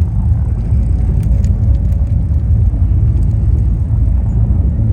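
Wind buffeting the microphone during a bicycle ride: a loud, steady low rumble with a few faint clicks.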